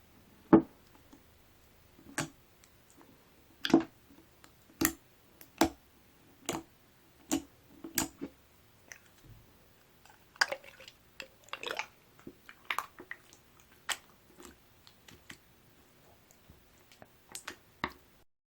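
Clear water-jelly slime with ice cubes in it being squeezed and pressed, the ice knocking sharply against the desk about once a second, then a quicker run of smaller clicks and wet squishes in the second half.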